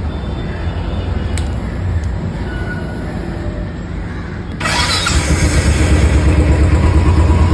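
A motor vehicle's engine rumbling, with a loud rushing noise and fast low pulsing coming in suddenly about four and a half seconds in.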